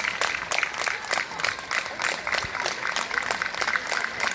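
A crowd jeering: clapping, whistling and shouting without pause.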